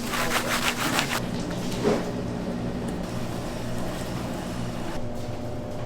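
A steady mechanical hum from a running machine, opening with a quick run of clicks during the first second and a single knock about two seconds in.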